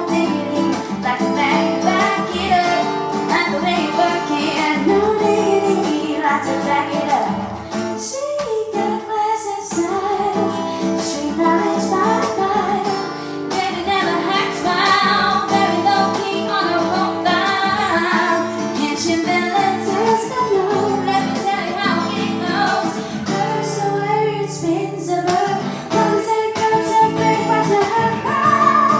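A song sung by a woman over guitar accompaniment.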